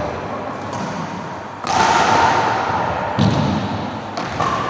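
Badminton rackets hitting a shuttlecock: several sharp hits a second or so apart, over a steady hiss.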